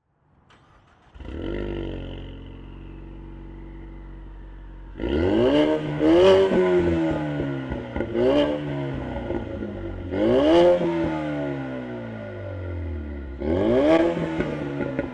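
Ford Mustang 2.3 EcoBoost turbocharged four-cylinder with a Milltek Sport exhaust starting up: it catches about a second in, flares, and settles to idle. From about five seconds in it is revved four times, each rev climbing quickly and dropping away slowly.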